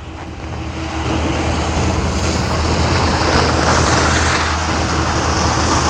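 A motor vehicle running: a steady low engine hum under a hiss of road noise, building over the first second and then holding steady.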